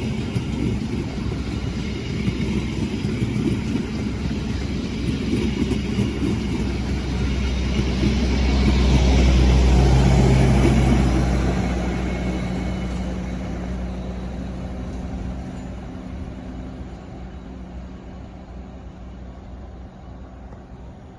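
Train passing close by: a diesel locomotive's engine hum swells to a peak about halfway through and then fades away, over the rumble and clatter of wheels on the track.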